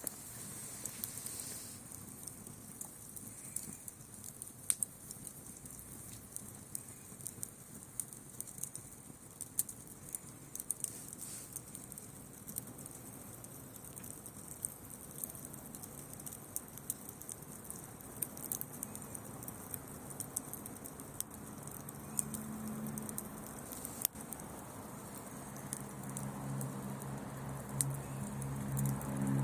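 Wood bonfire crackling, with frequent sharp irregular pops over a steady hiss. A low steady hum comes in near the end.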